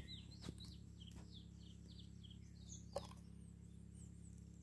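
Near silence with faint birdsong: a quick run of short chirps over the first couple of seconds. A few soft clicks of a knife cutting onion seedling roots, the sharpest about three seconds in.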